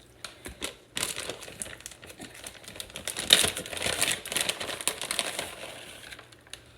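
Plastic bag of shredded cheese crinkling and rustling with many small rapid clicks as it is handled and the cheese is put on the soup. The sound is busiest from about a second in and thins out near the end.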